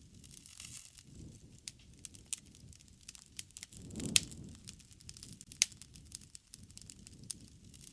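Wood fire crackling, with irregular sharp pops and snaps over a soft low rumble that swells about four seconds in, where the loudest pop comes.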